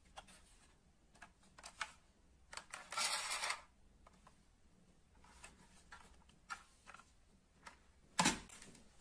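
Small clicks and knocks from die-cast metal model cars being handled, with a brief scrape about three seconds in and a sharper knock near the end.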